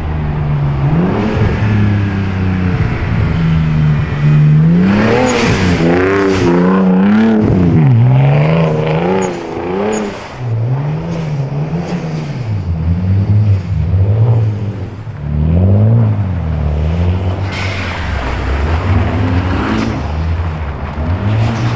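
Single-turbo BMW 335i engine driven hard, its revs climbing and dropping again and again through the gears. Bursts of rushing noise come about five seconds in and near the end.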